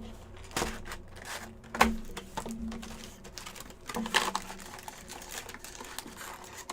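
Rustling of trading card pack wrappers and cards being handled, with a few sharp taps and clicks, about three of them standing out.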